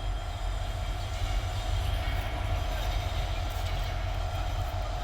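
Freight train running on the rails, a steady low rumble with a steady mid-pitched ring over it.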